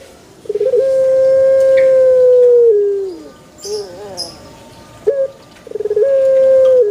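Male ringed turtle dove (burung puter) cooing twice: each call opens with a quick rolling stutter, then a long held coo of about two seconds that drops in pitch at the end. A few short high chirps come between the two calls.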